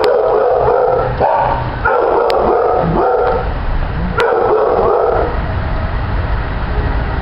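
A dog barking, about five loud barks over the first five seconds, then quieter, over a steady low hum.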